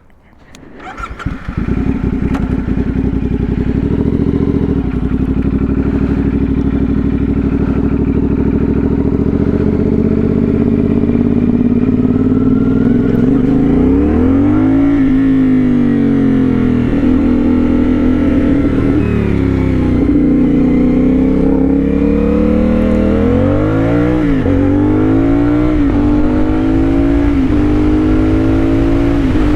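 CFMOTO 450SS parallel-twin motorcycle engine with an aftermarket slip-on exhaust, starting up about a second in and idling steadily. From about halfway through, the engine speed rises and falls several times as the bike pulls away and rides off.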